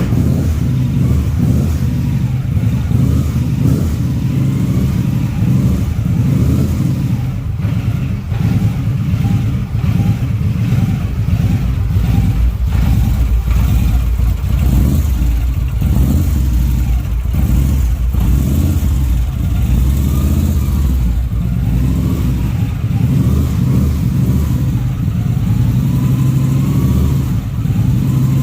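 2013 Victory motorcycle's V-twin engine running steadily just after a jump start, kept alive by a jump pack because its battery is dead.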